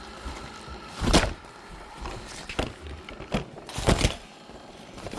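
A Roomba robot vacuum knocking and jolting as it moves: a few sharp knocks, one about a second in and a cluster around three to four seconds in.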